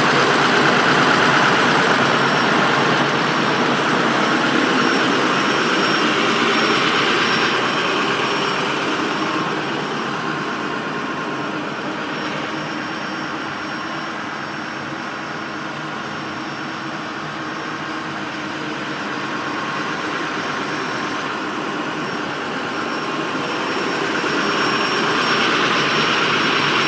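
2005 International 4200 dump truck's VT365 V8 diesel idling steadily. It gets somewhat quieter through the middle, then louder again near the end.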